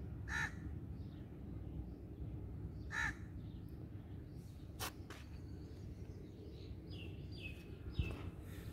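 A bird calling outdoors: two short calls about two and a half seconds apart, then a few short falling chirps and a sharp click near the end, over a steady low background rumble.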